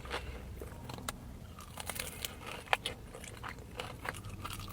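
Close-miked crunching and chewing of crisp food, with sharp crackles scattered through it, the loudest a little under three seconds in.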